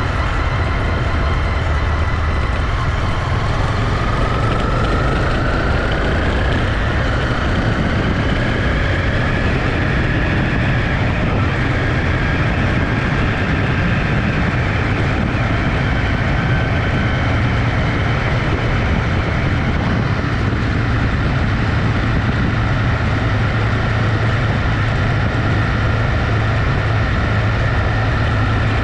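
Honda CB250R's single-cylinder engine running as the motorcycle rides along, under a steady rush of wind and road noise. The engine note climbs in pitch between about four and nine seconds in, then holds steady.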